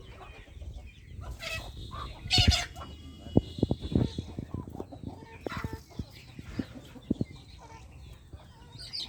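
Chicken clucking, with one loud squawk about two and a half seconds in and a scatter of soft taps.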